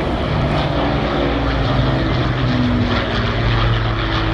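Propeller-driven Rolls-Royce V12 piston engines of Battle of Britain Memorial Flight warbirds droning in a flying display. The engine note drops slightly about three seconds in as the aircraft pass.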